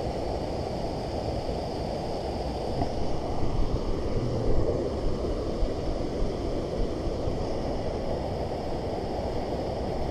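Steady rushing of flowing creek water with a low rumble, swelling a little louder a few seconds in.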